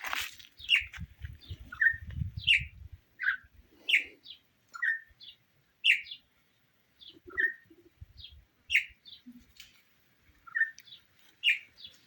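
Small birds chirping: short, sharp, downward-sliding calls repeated irregularly, about two a second.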